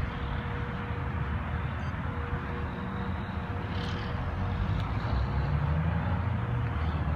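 Outdoor rumble of a passing motor vehicle, with a low engine note that rises in pitch and grows louder over the last few seconds.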